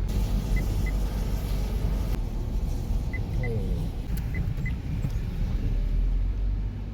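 Steady low rumble with a hiss over it, like a car on the move, with a few faint pairs of short high beeps.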